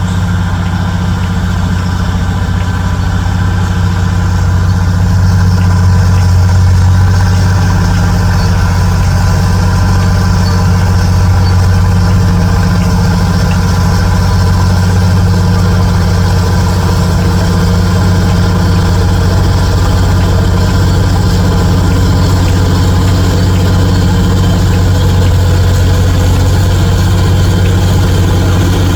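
Heavy construction vehicle's diesel engine running steadily at idle, growing a little louder about five seconds in.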